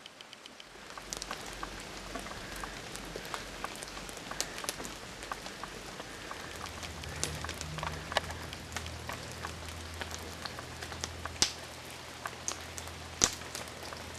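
Rain pattering, with irregular sharp drop hits scattered through it.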